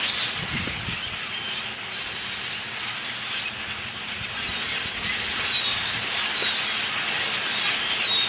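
A large flock of birds calling all at once: a dense, steady din of many overlapping high chirps over a hissing wash of noise.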